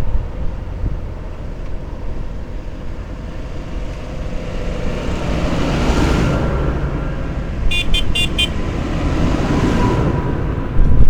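Motor vehicle engines running with a steady low rumble that swells twice as vehicles pass, and four quick high-pitched beeps of a horn about eight seconds in.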